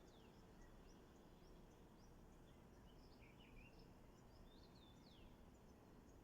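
Faint distant birdsong: many short, high chirps and twice a quick falling whistle, over a low steady background hiss.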